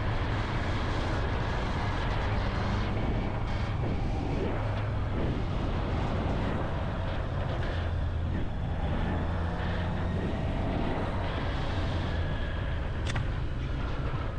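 Sportbike running down the road with heavy wind rush over the microphone and a steady low engine hum. One sharp click about 13 seconds in.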